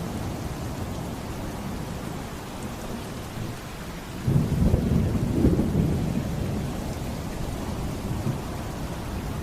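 Steady heavy rain with a roll of thunder rising about four seconds in and fading over the next two seconds.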